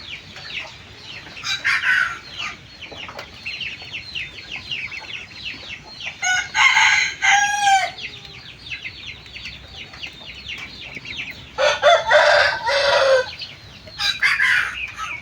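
Young aseel chickens peeping rapidly and steadily in a coop, with louder calls over the top, including two longer crowing calls about 7 s in and around 12 s.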